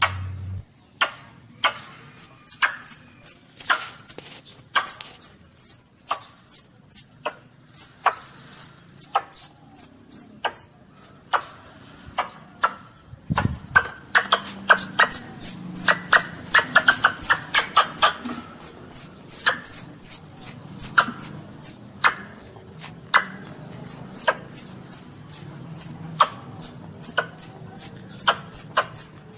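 Baby Asian palm civet (luwak) calling: a long run of short, high squeaks, each falling quickly in pitch, about two a second and quickening near the end. A single low thump comes about 13 seconds in.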